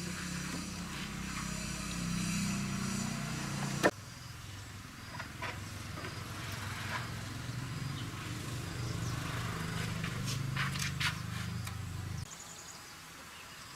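Small motorbike engine idling steadily, with a sharp click about 4 seconds in, after which it runs a little quieter; it cuts off about 12 seconds in.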